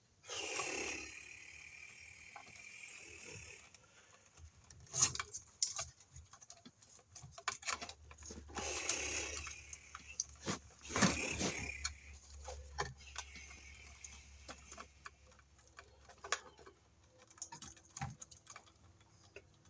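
Electrical wires being pulled and handled in a wall box: several stretches of rasping, scraping noise, each a second or a few seconds long, with scattered sharp clicks and taps.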